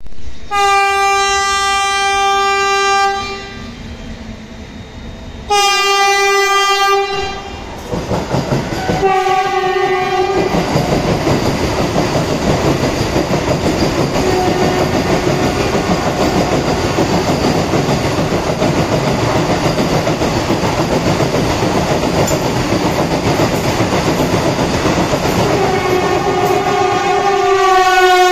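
Vande Bharat Express electric multiple-unit train running through a station at high speed. Its horn gives three blasts as it approaches, then the coaches pass with a long, loud rush of wheel and air noise. A horn sounds again near the end.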